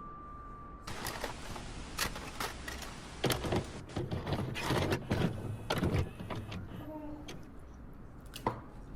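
Kitchenware being handled: a quick run of knocks and clatters for several seconds, then a single sharp knock near the end. The last note of glockenspiel background music fades out at the start.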